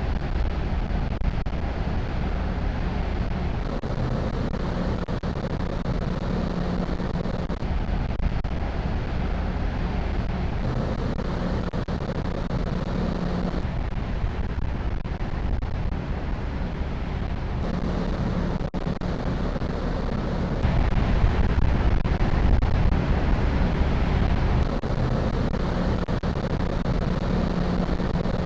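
Wind buffeting the microphone over the steady low drone of a car ferry and the wash of the sea, shifting in level every few seconds.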